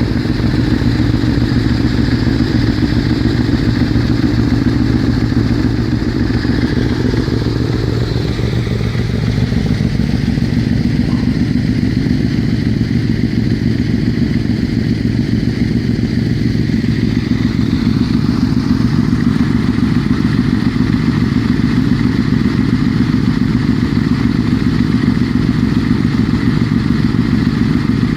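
Motorbike engine running steadily under way, its pitch rising once about a quarter of the way in.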